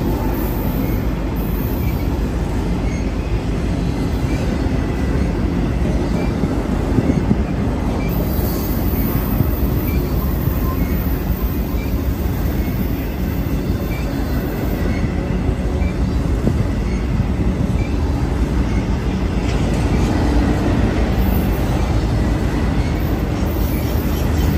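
BNSF intermodal freight train passing at close range: container- and trailer-carrying flatcars rolling by, with a steady rumble of steel wheels on rail.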